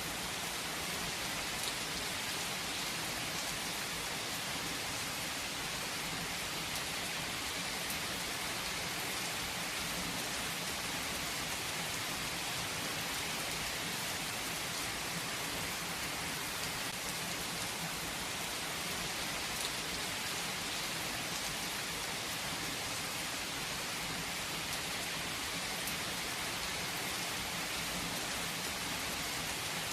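Steady rain falling on a surface, a constant even hiss with faint individual drop taps.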